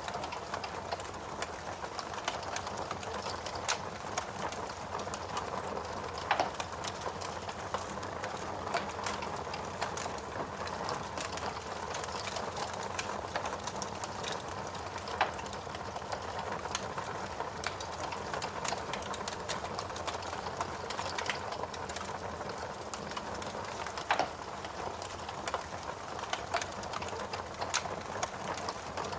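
Wood fire burning in a fireplace: a steady low hiss with many small crackles and a few louder pops.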